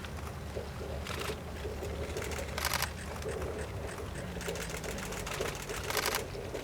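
Diesel railcar of the Kominato Railway running, with a low engine hum and a chattering mechanical rattle; sharp clatters come about every second to second and a half.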